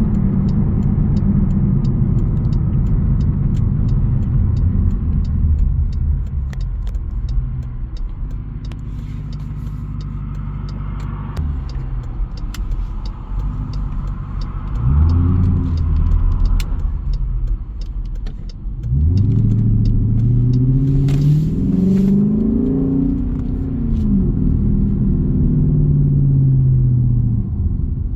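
Jeep Grand Cherokee's 5.7-litre Hemi V8 exhaust rumbling on the road. It starts at a steady cruise, has a short rev-up about halfway through, then accelerates harder for a few seconds with the engine note rising before it eases back to a steady cruise.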